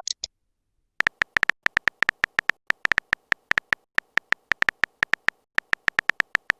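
Rapid, uneven series of short electronic tapping beeps, like a phone keyboard's key-press sounds as a chat message is typed out.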